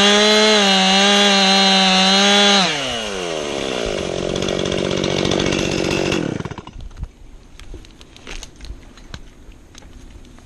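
Two-stroke Stihl chainsaw held at full throttle, then released so the engine drops to idle about three seconds in, and switched off a few seconds later. Only faint clicks and rustles follow.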